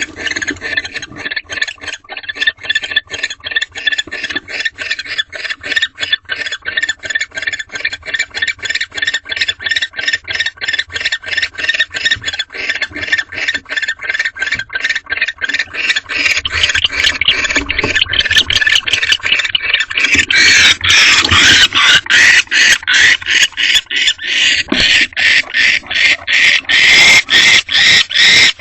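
Barn owls in a nest box giving a fast, rapidly repeated rasping call, about three or four notes a second, growing louder partway through, with a harsher noisy screech about twenty seconds in.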